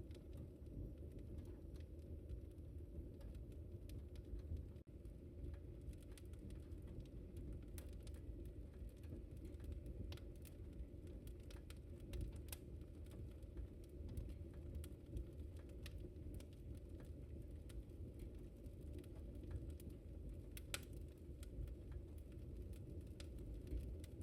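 Wood fire crackling in a fireplace: a steady low rumble of the flames with scattered sharp crackles and pops, one louder pop about three quarters of the way through.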